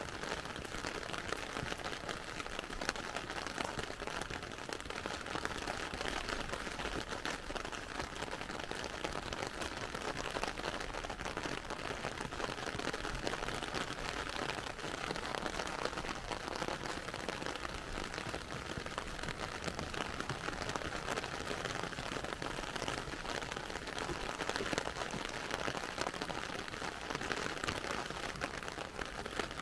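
Heavy rain falling on wet pavement and cars: a steady hiss dotted with many small, quick drop ticks.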